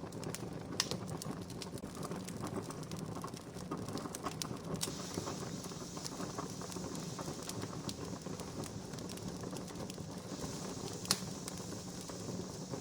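Wood campfire crackling, a steady bed of small snaps and pops with two sharper pops, one about a second in and one near the end. A soft hiss comes in about five seconds in.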